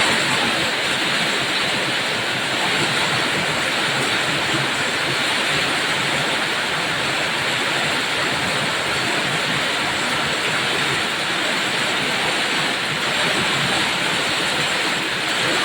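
Heavy rain falling steadily, an even rushing hiss with no change in strength.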